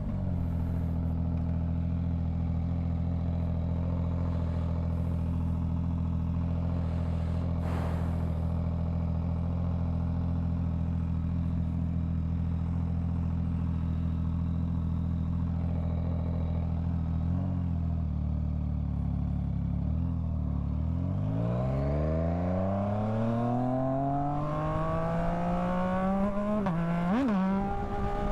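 Yamaha MT-09's three-cylinder engine idling steadily at a stop, then revving up as the bike pulls away and accelerates, rising in pitch from about two-thirds of the way in, with a quick gear change near the end.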